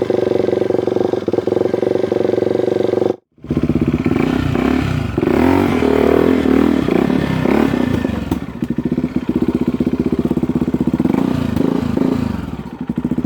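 Dirt bike engine running with a steady note, cutting off abruptly about three seconds in. It comes straight back, rising and falling in pitch as it revs, then settles to a steadier note.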